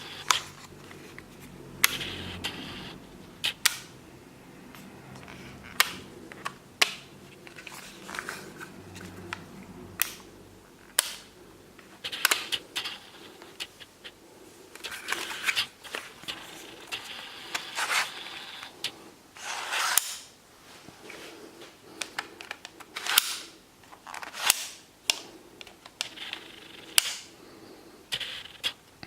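Tokyo Marui MP7 gas blowback airsoft gun being handled: irregular sharp mechanical clicks and clacks of its parts, with rustling in between.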